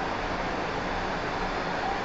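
Steady machinery noise in a forge shop, an even rush with a low hum, without hammer blows.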